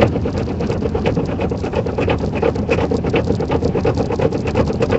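Rapid, continuous clacking of loose tire-chain ends slapping the inside of a car's wheel well as it drives slowly through snow, over the rumble of the car. The excess chain is too slack and smacks the inner wheel-well frame with each turn of the wheel.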